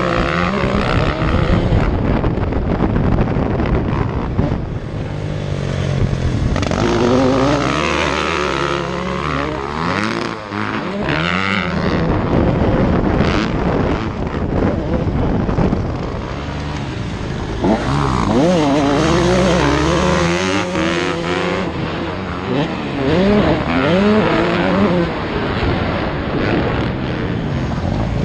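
Motocross motorcycle engines revving hard, their pitch rising and falling over and over as the bikes accelerate and back off.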